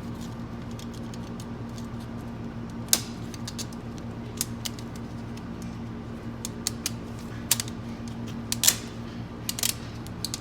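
Irregular light metallic clicks and taps as a retaining clip is worked into its groove on a transmission clutch pack, with a steady low hum underneath.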